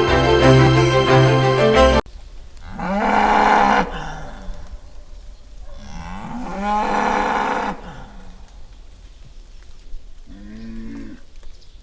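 Music that cuts off about two seconds in, then a cow mooing: two long moos and a shorter one near the end.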